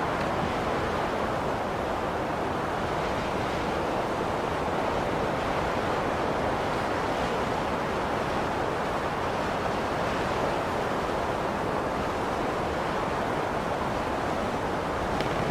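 Blizzard wind blowing steadily, a dense even rushing noise with no gusts or breaks.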